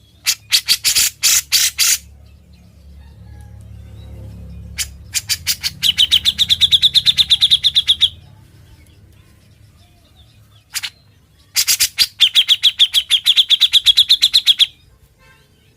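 Grey-cheeked bulbul (cucak jenggot) singing its rapid, drill-like rattling "ngebren" song. There are three bouts of fast repeated notes; the second and third are trills of about three seconds each on a steady high pitch.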